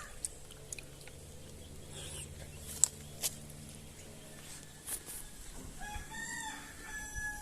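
A short bird call about six seconds in, over a faint steady low hum and a few light clicks.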